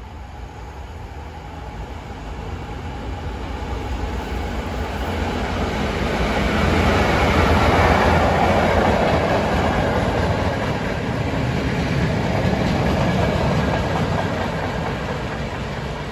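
Diesel locomotive hauling a coach passes close by, its engine and wheels on the rails growing steadily louder to a peak about eight seconds in, then fading as it moves away.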